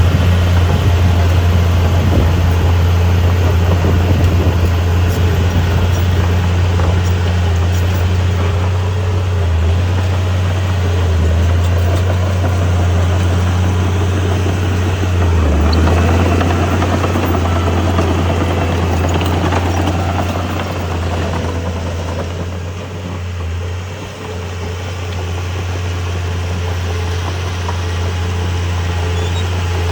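Heavy diesel engine of earthmoving equipment running steadily with a low drone. It swells with extra rushing noise for a few seconds past the middle, then dips briefly.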